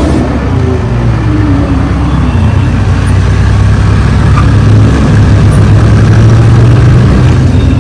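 Lamborghini Gallardo's V10 engine, loud, its note dropping over the first couple of seconds as the revs fall, then running steadily at low revs.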